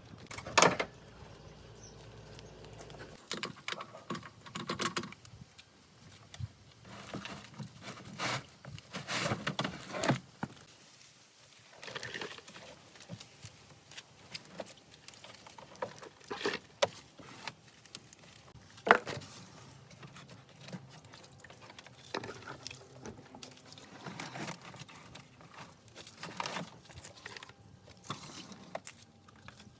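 Hand tools and metal parts being handled in workshop restoration work: irregular taps, clicks and short scrapes, with one sharp knock about two-thirds of the way through.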